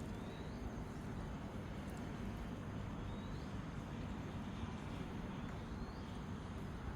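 Steady low outdoor rumble, with a bird's short rising call repeated about every three seconds.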